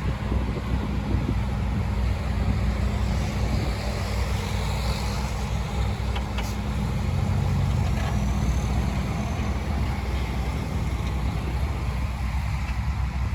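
Heavy diesel engine of earthmoving machinery running steadily, a continuous low hum with no break.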